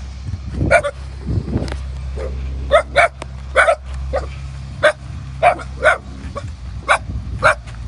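A dog barking repeatedly, about ten short sharp barks at uneven spacing, over the steady low drone of a bulldozer's diesel engine running.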